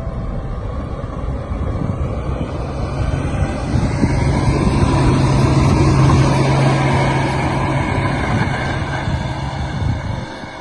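Engine of a heavy snow-clearing machine running steadily, with a low hum that grows louder through the middle and eases off near the end.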